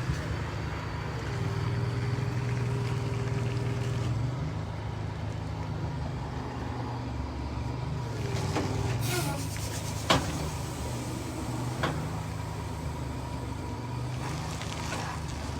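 Heavy diesel truck engine running steadily, with a brief hiss about nine seconds in and a sharp knock just after.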